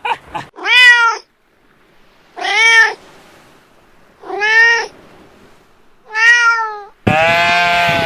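Domestic cat meowing four times, each meow about half a second long and arching up then down in pitch, about two seconds apart. Near the end a flock of sheep starts bleating, several voices at once and louder.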